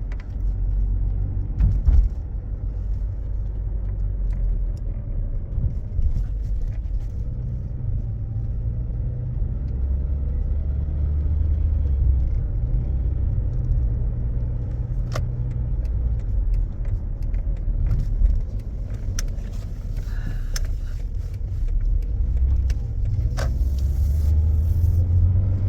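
Steady engine and road rumble inside a moving Toyota car, swelling and easing with driving, with a few sharp clicks. No knock or grind comes from the Aisin MMT robotized gearbox in third and fourth gear, now that its synchronizer has been replaced and shims added.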